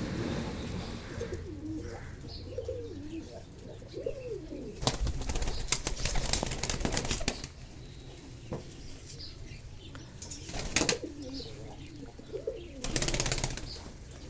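Fantail pigeons cooing low, with bursts of wing flapping about five seconds in, briefly near eleven seconds and again near the end.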